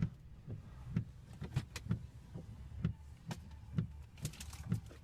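Steady rhythmic low thumping inside a truck cab, about two thumps a second, some with a light click, over a low rumble.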